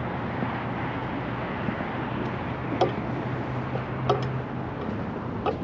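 Steady outdoor background noise with a low hum, broken by three short sharp sounds about a second and a half apart.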